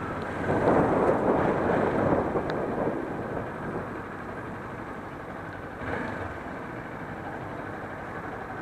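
Steady rushing noise of wind and traffic while riding a motorcycle in the rain, louder for the first few seconds and then settling lower.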